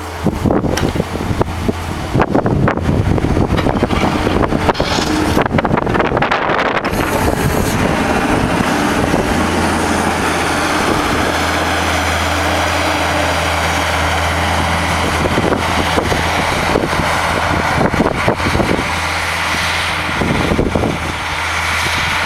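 Skid steer engine running steadily while it plows snow, with wind buffeting the microphone, heaviest in roughly the first seven seconds.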